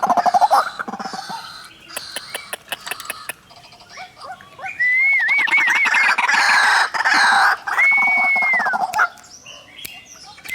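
White-breasted waterhens calling: rapid clucking notes at first, then, about halfway in, a loud run of quick rising-and-falling calls and one long drawn-out call.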